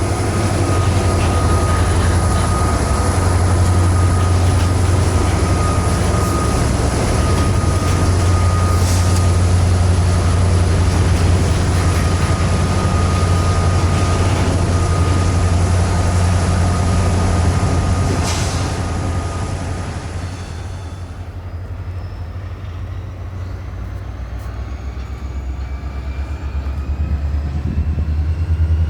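Train passing with a steady low rumble and a thin, steady squeal from the wheels. About twenty seconds in it gets quieter and several rising whines come in.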